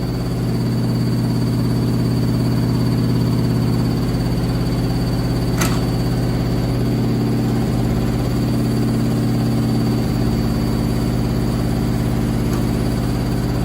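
Candy SmartTouch washing machine in a high-speed final spin with a heavily unbalanced load: a steady hum of motor and drum with vibration and a thin high whine. There is a single sharp knock about five and a half seconds in.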